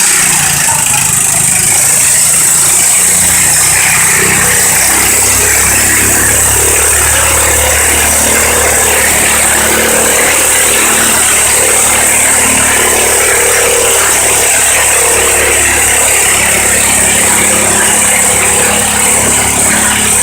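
Small single-cylinder Kohler engine of an old Case International garden tractor running steadily and loud under load while pulling the sled; its low engine note grows stronger about four seconds in.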